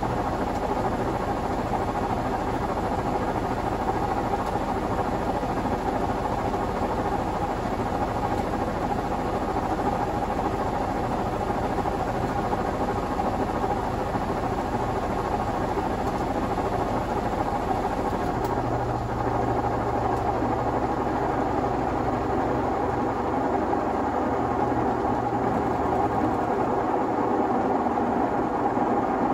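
Privileg 3001 S (Zanussi-built) washing machine with a three-speed gear motor, running with a steady whir. About two-thirds of the way through, a low hum sets in, then fades a few seconds later.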